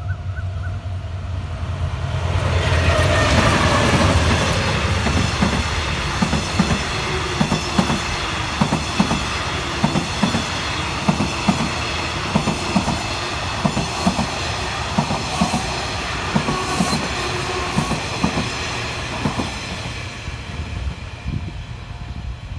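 A diesel-hauled passenger train passing close by. The locomotive's engine rumble swells, and its pitch drops as it goes past. Then the coaches' wheels knock over the rail joints in a steady clickety-clack, about two beats a second, while the train slows for a station stop. The sound fades near the end.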